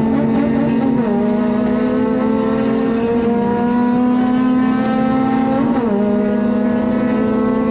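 Honda Civic FD2 Type R's 2.0-litre four-cylinder engine pulling hard on track, heard from inside the car; its note climbs steadily and drops sharply about a second in and again near six seconds, as the driver shifts up.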